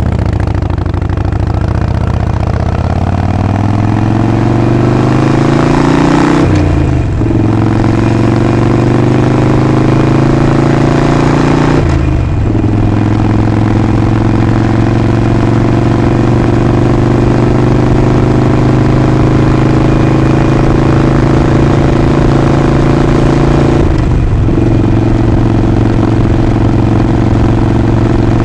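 Harley-Davidson Sportster Forty-Eight's 1200 cc V-twin pulling away, its note rising over the first few seconds, with short breaks for gear changes about six and a half and twelve seconds in. It then runs steady at cruising speed, with one more brief break later on.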